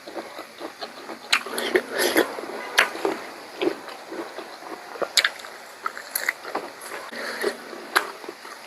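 Close-up eating sounds: chewing and wet mouth smacks on pork curry, with scattered sharp clicks and crunches.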